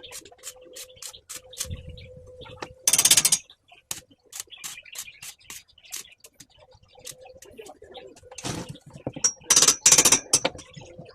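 Birds moving about in a steel wire cage: a steady low cooing hum, with many quick clicks and taps on the wire. There are two loud rattling bursts, a short one about three seconds in and a longer one near the end.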